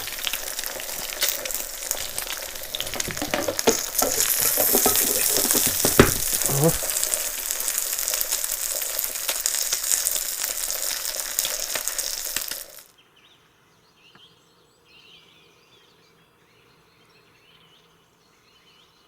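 Eggs and leftover meat frying in a pan on an electric hotplate, a steady sizzle full of fat crackles that grows louder about four seconds in, with a single utensil knock. It cuts off abruptly about two-thirds of the way through, leaving only faint background sound.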